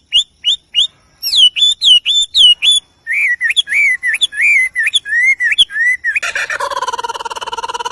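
Birdsong: a bird whistles a varied run of clear notes, first quick rising whistles, then after a short pause slurred, swooping phrases. About six seconds in, a harsh, buzzy, nasal call takes over and carries on.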